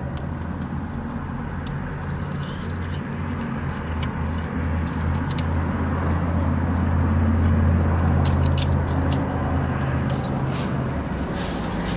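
Car engine idling, heard inside the cabin as a steady low hum that swells a little midway. Scattered small wet clicks of chewing and biting into a chicken wing sound over it.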